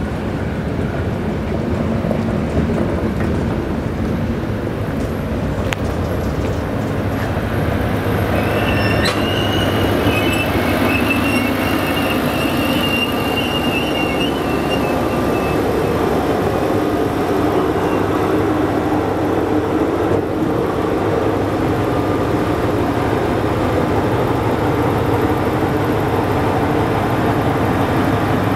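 A train running on the rails, a steady rumble throughout, with a thin high squeal lasting about six seconds that starts roughly eight seconds in.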